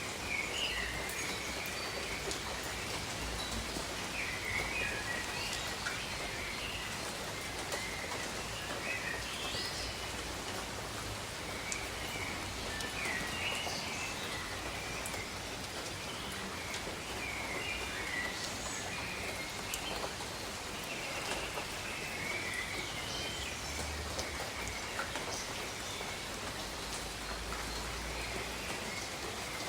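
Steady rainfall hissing over jungle foliage, with birds calling in short chirping phrases every second or two.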